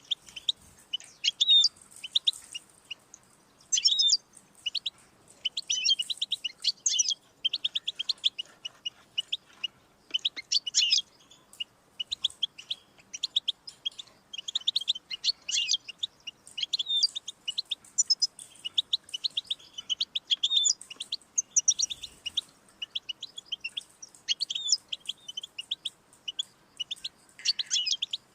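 European goldfinch singing: a continuous, fast twittering song of rapid chirps and trills, with short pauses between phrases.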